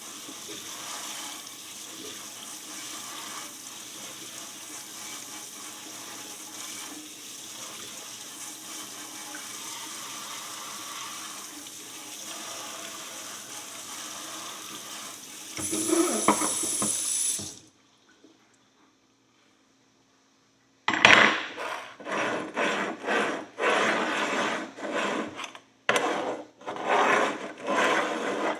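Hot water from a kitchen tap spraying steadily onto a dirty horseshoe in the sink, getting louder for a moment before it stops. After a few seconds of silence, a metal pick scrapes repeatedly at the caked dirt on the horseshoe in short strokes.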